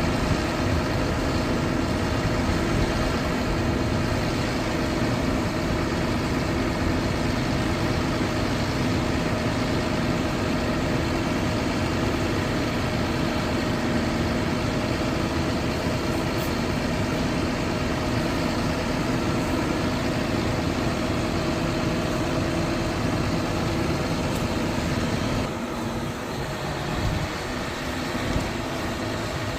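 Diesel engine of a Hyundai concrete pump truck running steadily with a constant hum, easing slightly near the end.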